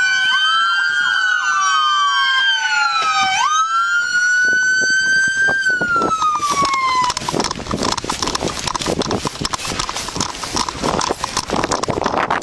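Several police car sirens wailing at once, their rising and falling tones overlapping. The sirens stop about seven seconds in, giving way to dense, irregular clattering and crackling noise.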